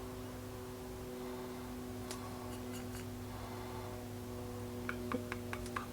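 A steady low hum, with a few light clicks about two seconds in and a quick run of about seven clicks near the end, as painting tools are handled at the desk.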